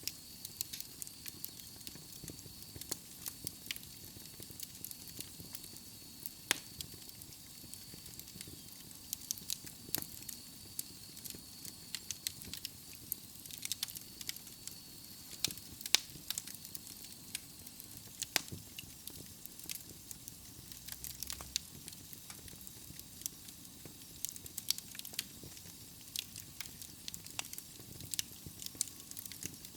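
Wood logs burning in a fireplace, crackling with frequent sharp pops and snaps over a soft steady hiss. A faint, thin high whistle runs under the crackle for about the first half, then fades.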